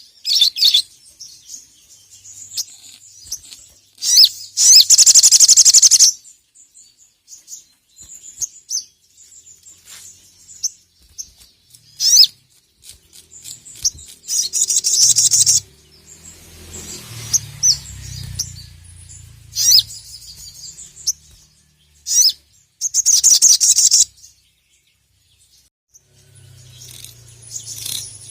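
Sogon (crimson sunbird) singing in loud, high-pitched bursts of rapid chattering trills, with short pauses between them. The longest, loudest bursts come about four seconds in, in the middle, and near the end.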